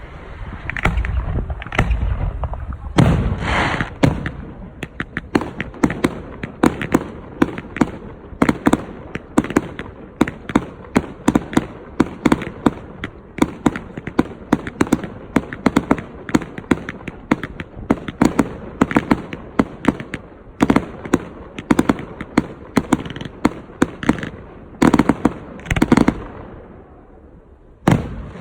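Fireworks display: aerial shells bursting in quick succession, a dense stream of sharp cracks and crackles with a few heavier booms. The bursts die away briefly near the end, then start again.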